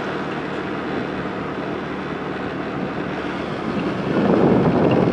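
Motorbike running while being ridden, with wind rushing over the microphone; the sound gets louder about four seconds in.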